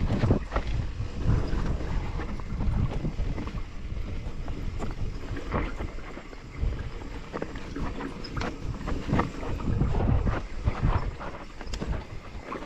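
Wind buffeting the microphone over a low rumble, with frequent irregular knocks and rattles from a bicycle riding over a rough dirt trail.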